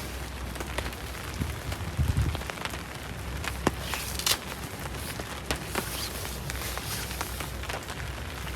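Rain falling steadily, with scattered drops ticking sharply on a nearby surface, and a brief low thump about two seconds in.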